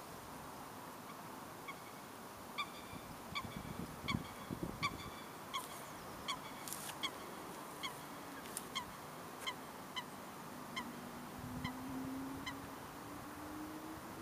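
A waterbird calling over and over: short, evenly spaced notes, about one and a half a second, starting about two seconds in and stopping near the end, over a steady outdoor hiss.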